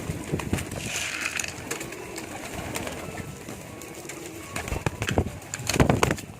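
Domestic pigeons cooing low and softly, with a few sharp knocks, the loudest just before the end.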